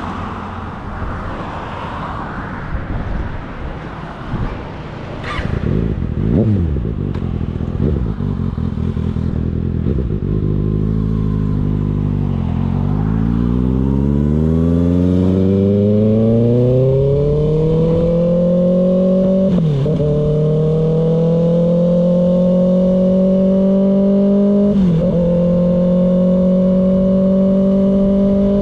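Kawasaki ZX-6R's inline-four engine dropping to low revs, then accelerating hard with rising pitch, with two quick gear changes along the way before settling into a steady high-speed pull.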